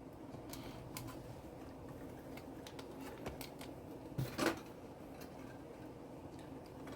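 Faint clicks and rustles of small plastic HO scale model train cars and their boxes being handled, with one louder knock about four and a half seconds in.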